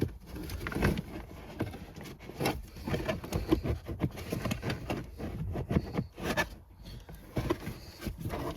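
Thick car floor carpet and trim being pulled and wrestled out of a vehicle's cargo area: a steady run of irregular rustles, scrapes and small knocks.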